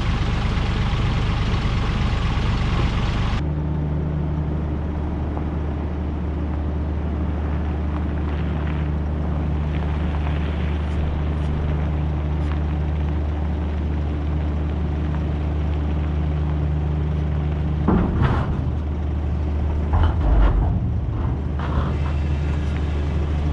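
Heavy engine, likely the excavator's, idling steadily with a low, even note. A louder rushing noise cuts off abruptly about three seconds in, and a few short knocks come near the end.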